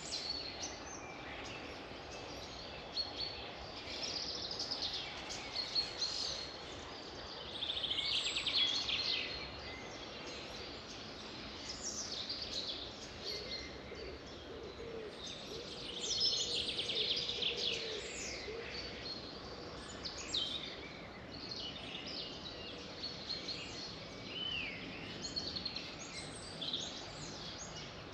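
Several songbirds singing in overlapping phrases and chirps, with fast trills loudest about a third of the way in and again just past halfway, over a steady background hiss.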